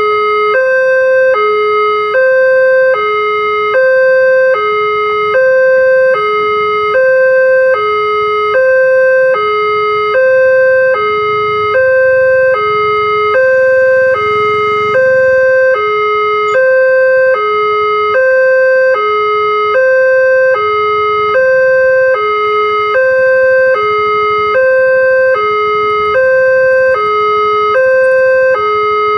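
Railway level-crossing warning alarm sounding its two-tone signal, a higher and a lower tone taking turns about every three-quarters of a second without a break, warning that a train is approaching.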